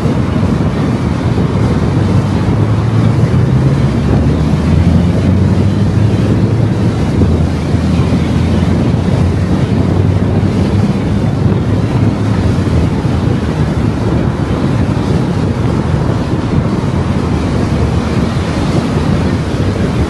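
A car driving along a road: steady, loud tyre and wind noise with a low engine drone that stands out a little more for several seconds in the middle.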